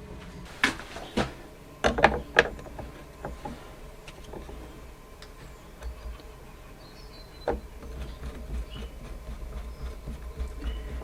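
Workshop handling sounds: a quick run of five or six sharp knocks and clicks in the first two and a half seconds, then one more about seven seconds in, over a low steady rumble.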